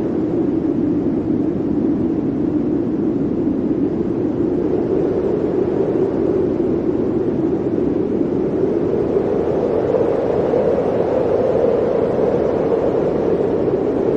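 Blizzard wind blowing steadily as a strong, low rushing noise, its pitch rising slightly in the second half.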